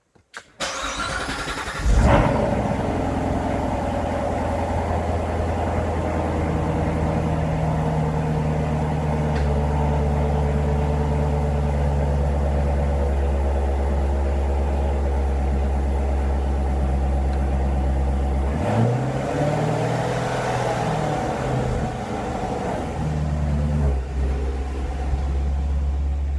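Chevrolet C7 Corvette Stingray's 6.2-litre LT1 V8 cold-starting: the starter cranks briefly, the engine catches with a loud flare about two seconds in, then settles into a steady idle through its exhaust. The idle pitch wavers briefly about three-quarters of the way through.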